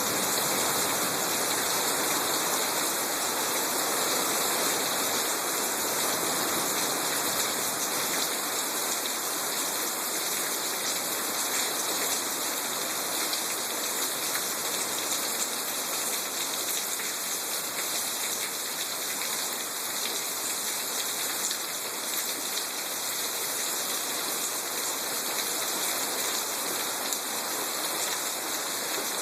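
Heavy thunderstorm rain falling steadily, an even hiss of downpour.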